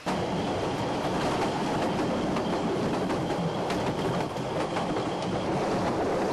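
Ffestiniog Railway narrow-gauge train running along the track: a steady rumble with many sharp clicks and rattles from wheels and carriages.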